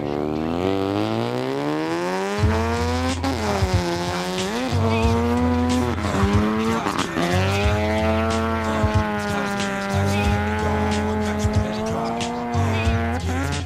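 Mazda RX-7 FC engine revving hard while drifting, with tires squealing. The pitch climbs over the first three seconds, then dips and picks up again several times as the throttle is lifted and reapplied, holding high in between.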